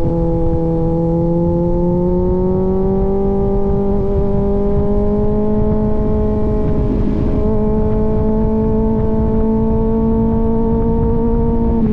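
Kawasaki Z900 inline-four running through an aftermarket AR exhaust at steady cruising revs. Its note climbs gently over the first few seconds, then holds, over a constant low rush.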